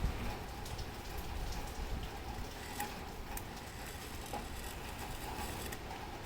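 Scattered small, irregular clicks and taps from parts being handled while working on a grandfather clock movement, over a low steady rumble.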